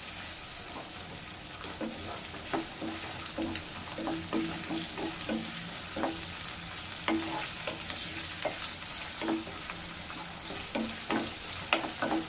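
Sliced onion and green capsicum sizzling in hot oil in a pot while being stirred, the stirring utensil knocking and scraping against the pot at irregular intervals.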